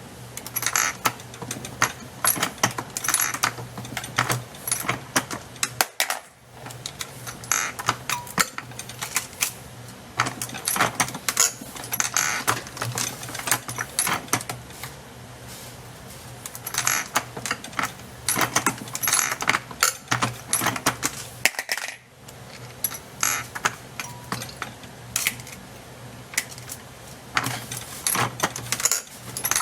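Reloading press being worked to load 9mm cartridges, with repeated sharp metallic clicks and the clinking of brass cases and loaded rounds.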